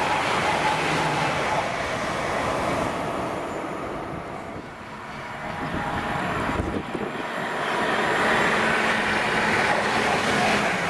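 A train passing at speed, with a loud, continuous rush of wheels on rail. The sound eases off about four to five seconds in, then builds again, with a single knock about seven seconds in.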